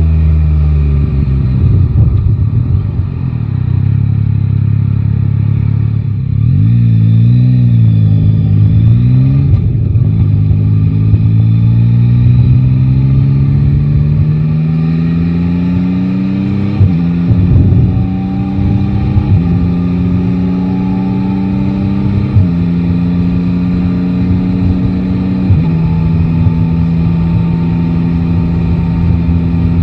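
Yamaha Tracer 9 GT inline-three engine under way on the road. It revs up and down briefly, then pulls in one long steady rise. After that come several gear changes, each a quick break in the engine note, and it settles to a steady cruise.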